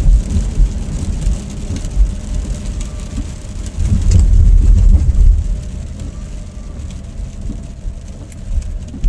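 Road and engine rumble of a car driving, heard inside the cabin. It swells for a second or two about four seconds in.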